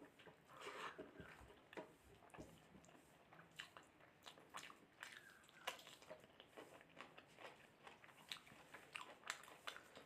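Faint eating sounds: a person chewing and biting mutton curry with rice, with many small, irregular wet mouth clicks.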